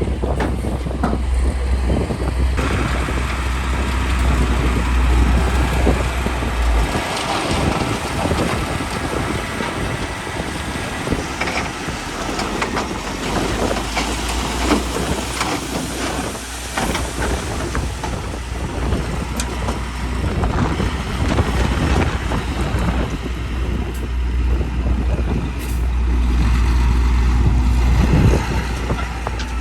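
Heavy diesel trucks and a bulldozer working, with a steady low engine drone under a continuous clatter of knocks and scraping from stone being dumped and pushed.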